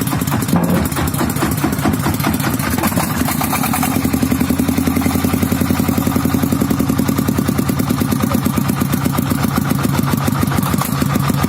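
Diesel engine running at idle with an even, rapid beat, settling into a steadier rhythm about four seconds in.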